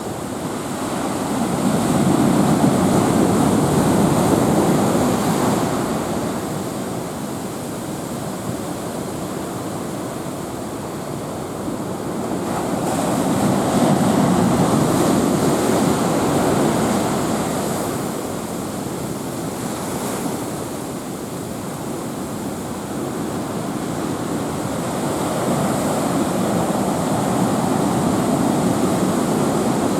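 Heavy typhoon swell on the sea: waves surging and washing in long, slow rushes that build and fade about every twelve seconds, three times over.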